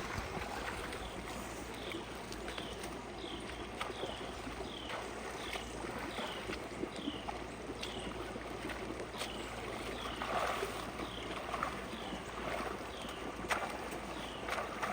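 Water rushing steadily through a culvert and creek, with a short high chirp that falls in pitch repeating about twice a second and a few sharp clicks.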